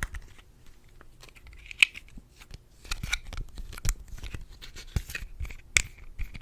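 Irregular crisp taps and clicks close to a sensitive microphone, typical of ASMR hand sounds and tapping. A few sharper clicks stand out about two, four and six seconds in.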